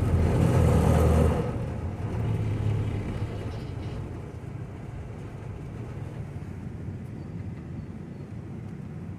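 Road vehicle driving: a low rumble, loudest for about the first second and a half, then steadier and quieter.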